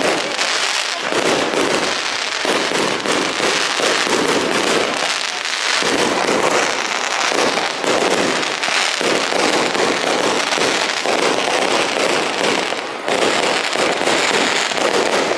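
Fireworks going off in a dense, continuous run of crackles and pops.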